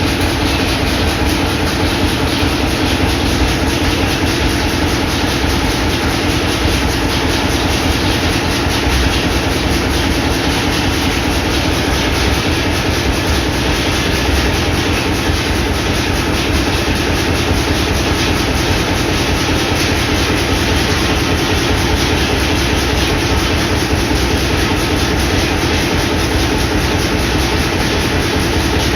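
Old hot-bulb (crude-oil) engines of a farm sawmill running steadily, with a fast, even, unchanging rhythm.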